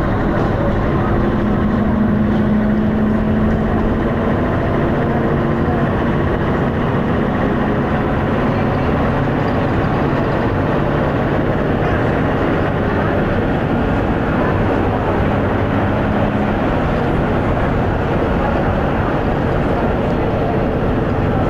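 Dennis Arrow double-decker bus's diesel engine running under way, heard from inside the bus, with road and body noise; the engine note shifts pitch a few times.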